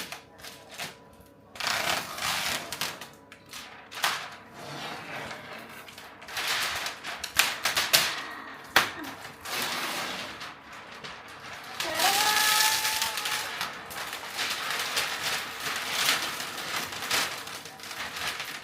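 Handling noises: irregular clicking, clattering and rustling, with a short pitched tone that rises and then holds about twelve seconds in.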